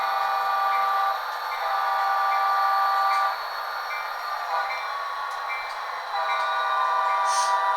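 Model diesel locomotive's digital sound decoder sounding its multi-chime horn in long steady blasts, with a short one between them. A brief hiss comes near the end.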